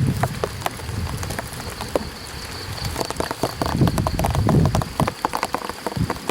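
Light rain pattering on an umbrella overhead: many separate drop ticks, over a low rumble.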